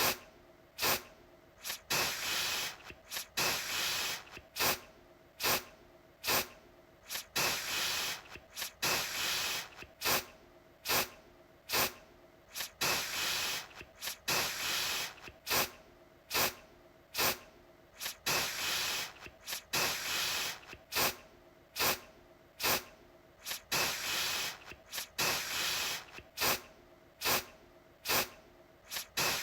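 Aerosol deodorant can spraying in short repeated bursts: each burst is a hiss that starts suddenly and lasts under a second, with brief gaps between.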